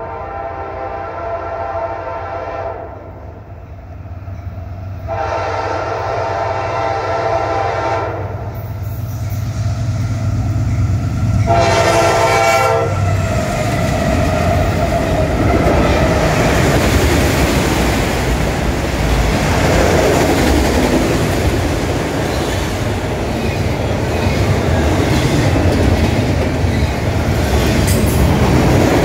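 Norfolk Southern freight train with four diesel locomotives on the head end. The lead locomotive's horn sounds two long blasts and one short one over a building engine rumble. The locomotives then pass, and double-stack intermodal container cars roll by with steady wheel clatter and rumble.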